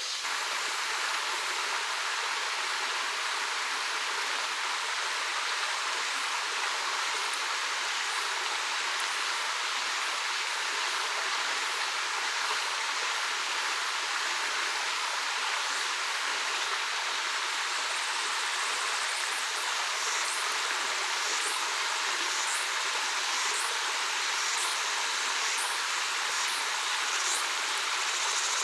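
Mountain valley stream running steadily: an even, unbroken rush of water.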